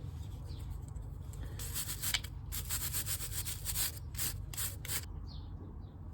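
Brush scrubbing small metal brake-pad hardware clean: a run of quick, rough back-and-forth strokes from about a second and a half in, stopping near the end.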